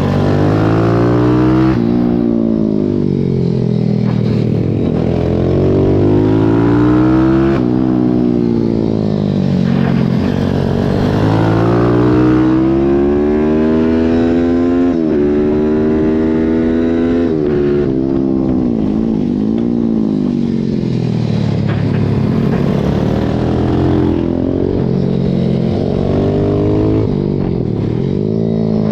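Pit bike's small single-cylinder engine under race load, heard onboard: revs repeatedly climbing through the gears and dropping off into corners, with a long climb in the middle of the stretch.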